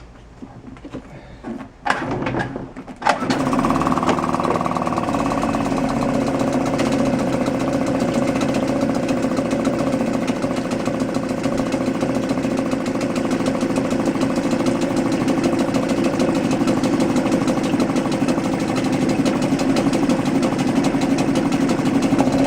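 Suzuki 2.5 hp single-cylinder four-stroke outboard being pull-started cold with the choke on: two short bursts from the starter about two and three seconds in, then the engine catches and runs steadily.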